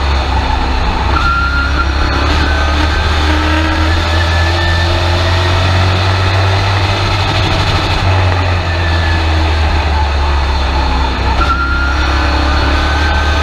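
Race truck engine running hard at racing speed, heard loud from inside the cab, a steady drone whose pitch rises and falls a little with the throttle.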